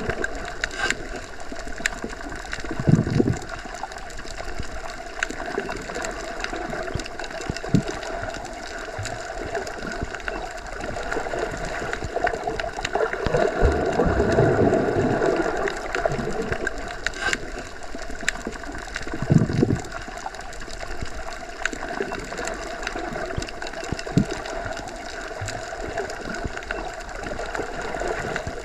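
Underwater ambience as heard submerged in a pool or lake: a steady, muffled wash of water noise with a faint hum, swelling low a few times, around 3 seconds in, mid-way and near 20 seconds.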